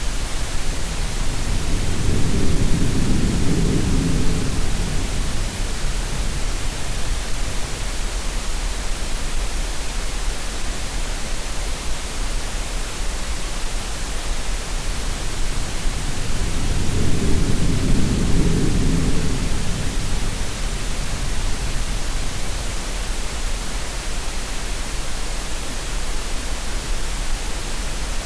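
Steady green noise hiss mixed with sea sounds: two slow, low swells of surf, one a couple of seconds in and another about sixteen seconds in.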